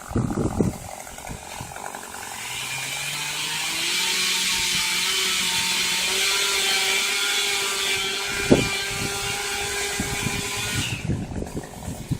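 Chainsaw revving up about two seconds in and running at high speed for several seconds before cutting off near the end, with a few knocks at the start and one sharp knock partway through.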